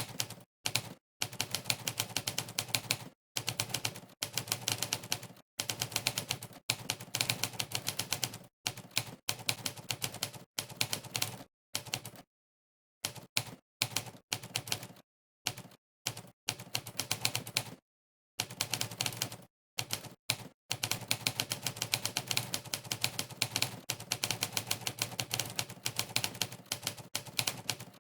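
Monkeytype's typewriter sound effect: a sampled typewriter key clack for each keystroke, in fast runs of many clacks a second. The runs are broken by short gaps of silence, the longest about twelve seconds in.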